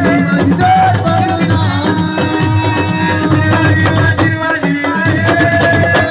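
Live assiko band music: rapid drumming and rattling shakers under a held melody line.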